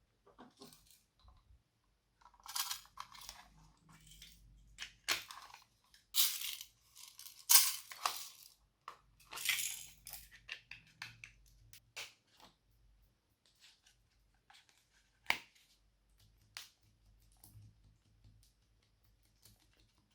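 Slime being squished and mixed by hand: irregular bursts of sticky crackling and popping, with a few short sharp clicks, sparser in the second half.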